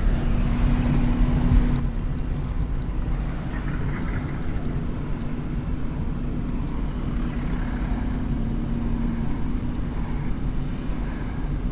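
A car driving: steady engine and road rumble, a little louder at first and then settling about two seconds in, with a few runs of light clicks.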